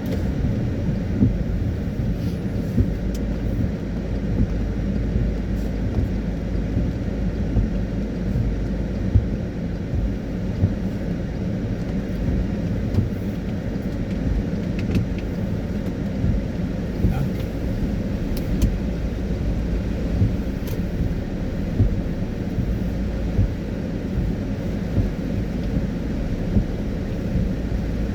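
Car driving on a wet road in rain: a steady low rumble of road and engine noise, with scattered faint ticks.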